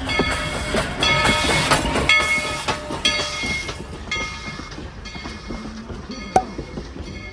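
A steam locomotive's bell ringing steadily, a clang about every half second, over the rumble of the train. There is one sharp click near the end.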